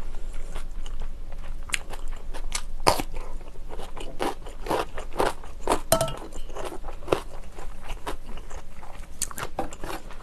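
Someone chewing crunchy kimchi with the mouth closed: a quick, irregular run of wet crunches and bites, several a second.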